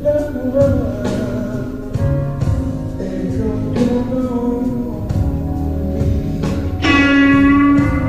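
Electric blues guitar with bass and drums, playing wavering, bent notes. A loud held guitar note rings out about seven seconds in.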